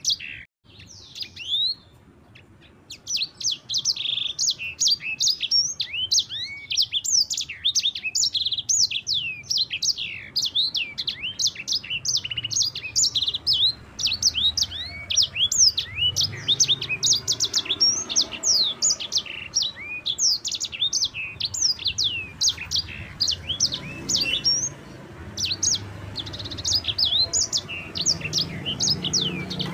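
Sanger songbird singing a long, rolling song of rapid high sweeping chirps, starting about three seconds in after a short lull and running on without a break.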